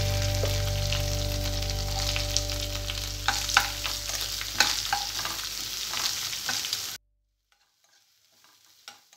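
Chopped onions sizzling in hot oil in a wok, stirred with a steel spoon that scrapes and clicks against the pan, over a steady low hum that slowly fades. About seven seconds in, the sound cuts off abruptly to near silence with a few faint clicks.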